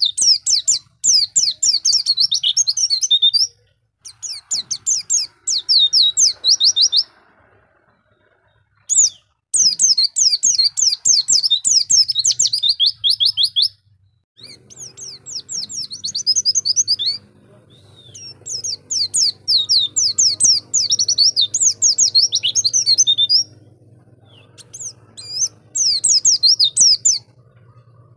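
White-eye (pleci) singing a rapid, high-pitched twittering song in bursts of about two to five seconds, separated by short pauses. A faint low hum runs underneath in the second half.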